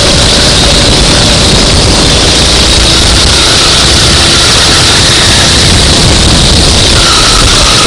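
Go-kart engine running, very loud and noisy, with a faint engine note shifting in pitch under a dense roar.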